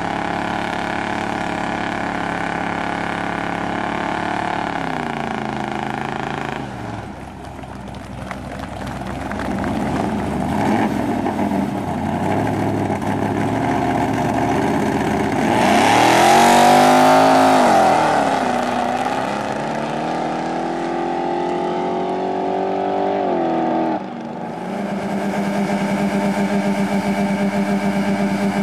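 Drag-race car engines in turn: one held at high revs through a smoky burnout, then easing off. A muscle car's engine then revs up and down, loudest about halfway through, with the hiss of spinning tyres in a burnout. Near the end another car's engine runs steadily at raised revs on the start line.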